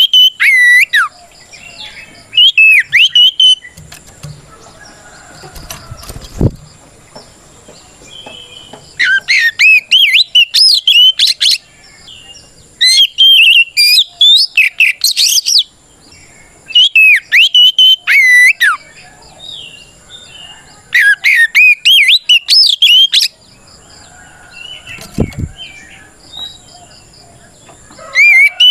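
Oriental magpie-robin (kacer) singing in full, loud 'ngeplong' challenge song: bursts of rapid, swooping whistled phrases of two to three seconds each, with pauses between. This is the song of a male calling out a rival.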